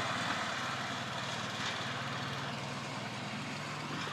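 Cub Cadet mower engine running steadily with a constant low hum.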